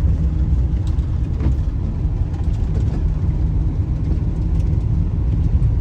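Van's engine running, a steady low rumble with a few faint clicks over it.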